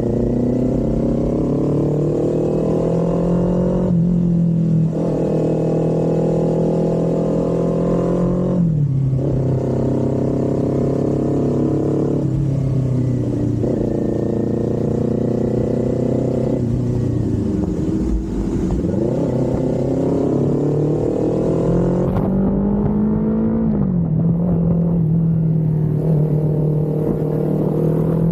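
Kawasaki Z400's parallel-twin engine accelerating through the gears, its note climbing and then falling abruptly at each of several upshifts. About two-thirds of the way through it briefly drops off and picks up again.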